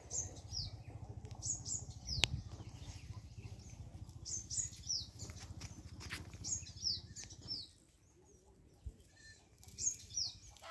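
Small birds chirping again and again, each call a short high whistle that falls quickly in pitch, over a low steady rumble that stops about three-quarters of the way through. A single sharp click about two seconds in.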